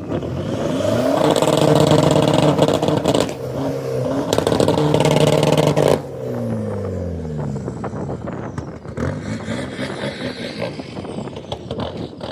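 A car engine accelerating hard, its pitch climbing twice with a brief drop between about three seconds in, like an upshift. Near the middle the pitch falls away and the sound fades as the car passes and moves off, and a fainter engine revs again near the end.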